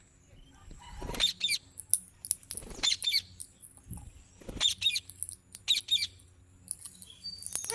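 Pet green parrot giving short, sharp chirping calls in quick clusters, about one burst a second with short pauses between.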